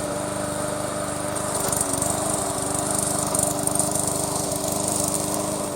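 Engine of a remote-controlled push lawn mower running steadily under load, a little louder with more high hiss through the middle of the stretch.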